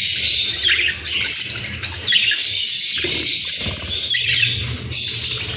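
Lovebirds chirping in a dense, continuous high chatter.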